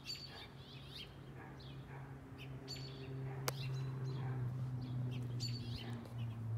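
Birds chirping in short high calls throughout, over a steady low hum that grows louder after about two seconds, with a single sharp click midway.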